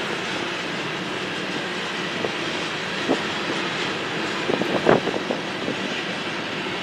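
Train cars rolling past on the rails, a steady rumble with a few sharp wheel clicks and knocks about halfway through.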